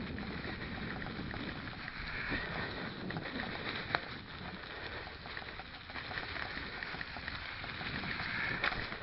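Stels mountain bike rolling along a forest dirt track: a steady rush of tyre and wind noise with scattered light rattles and knocks from the bike, and one sharper click about four seconds in.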